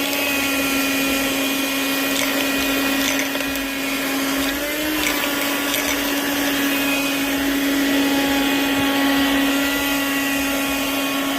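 Small 12V handheld car vacuum cleaner running with a steady hum, its pitch wavering briefly about halfway through. A few light clicks come as coins are sucked up the nozzle.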